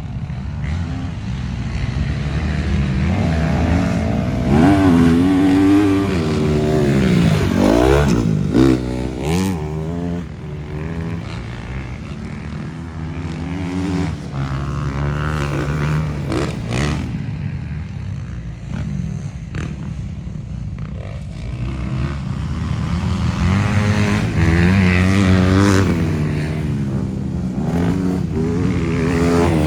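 Motocross dirt bikes riding the track, engines revving up and down in pitch as they accelerate and back off. More than one bike is heard at once, with the loudest passes early on and again near the end.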